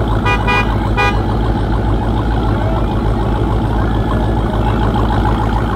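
Car engine running with a steady low rumble, with a few short horn-like beeps in the first second.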